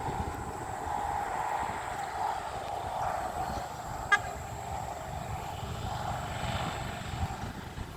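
Sugar cane train running, a steady rumbling and grinding with one sharp metallic click about four seconds in.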